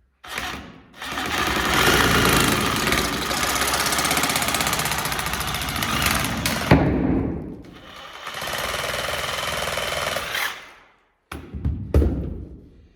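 A handheld power tool running in two long bursts with a fast pulsing rattle, with a few knocks between and near the end.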